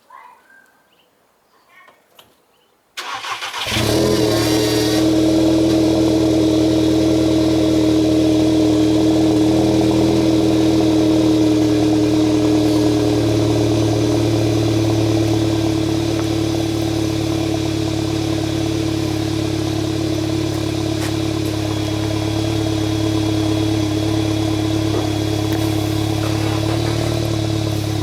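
A 2015 Volkswagen GTI Mk7's 2.0-litre turbocharged four-cylinder, breathing through an AWE Track Edition cat-back exhaust, is cold-started. After a few faint clicks, the starter cranks about three seconds in and the engine catches. It settles into a steady, loud cold idle that eases a little about halfway through.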